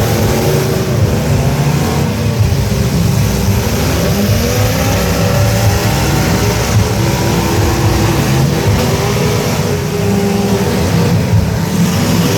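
Several truck engines running and revving at once in a demolition derby, their pitch rising and falling.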